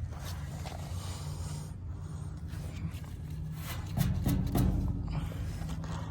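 Rheem Classic air conditioner condensing unit running with a steady low hum, over which there is rustling and rubbing close to the microphone and a louder low rumble about four seconds in.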